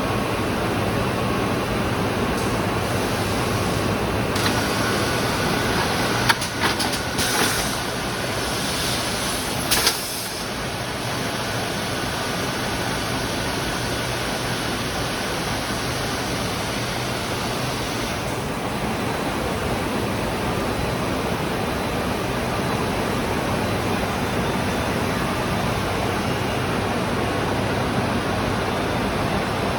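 Biesse Techno Logic 2000 CNC drilling machine running with a steady mechanical hum and noise. About six to ten seconds in come a few sharp knocks and brief hisses, like compressed air being released.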